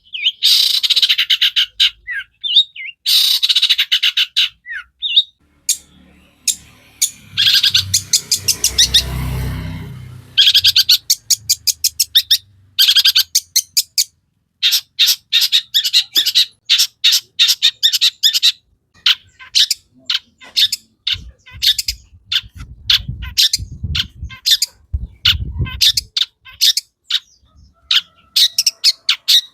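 Long-tailed shrike in full song, a rapid run of sharp, harsh chirps and chatters at several notes a second, with a fast dense rattle about eight seconds in. Faint low thuds sound underneath midway and again near the end.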